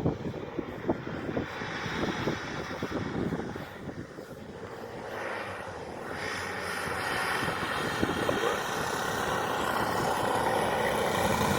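Propeller drone of a radio-controlled model Dornier seaplane in flight, growing steadily louder through the second half as the model comes closer. An uneven low rumble runs under it in the first few seconds.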